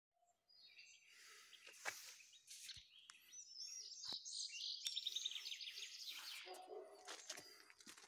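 Songbirds singing, several overlapping calls: high whistles and a fast trill of repeated notes, with a few faint clicks.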